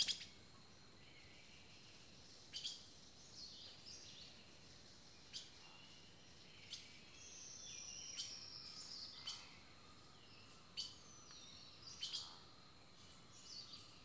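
Faint, scattered bird chirps and short calls, some falling in pitch, with one longer, slightly falling whistle about seven seconds in.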